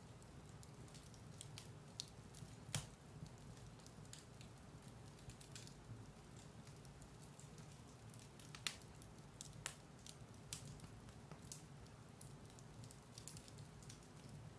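Firewood burning in a fireplace: scattered soft crackles with a few sharper pops, the loudest about three seconds in and near nine seconds, over a low steady rumble of the fire.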